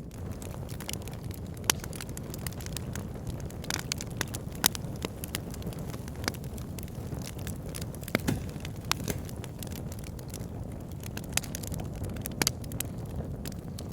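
Wood fire burning in a log burner: a steady low rush of flames with frequent irregular crackles and sharp pops from the logs.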